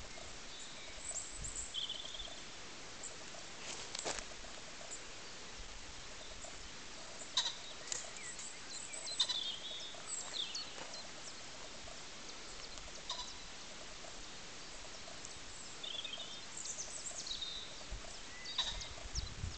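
Faint steady background hiss with scattered short, high bird chirps and calls, a cluster of them about halfway through and again shortly before the end.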